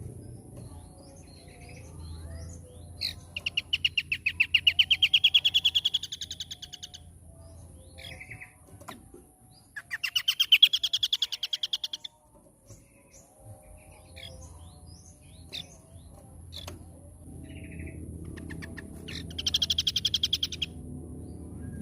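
Scaly-crowned babbler singing: three loud, rapid trills that rise in pitch, the first lasting about three seconds and the others shorter, with short scattered call notes in between.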